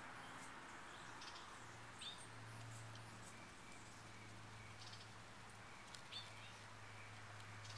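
Faint outdoor ambience with a few short, high bird chirps scattered through it over a soft background hiss. A low steady hum comes in about a second and a half in.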